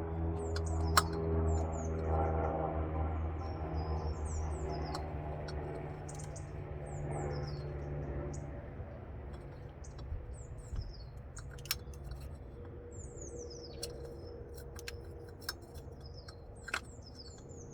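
Small birds chirping repeatedly in short, quick, falling notes over a low, steady hum that fades away about halfway through, with a few sharp clicks.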